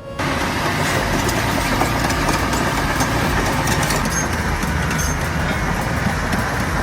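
Heavy earthmoving machine's diesel engine running, with a dense clatter of mechanical noise over a low engine hum.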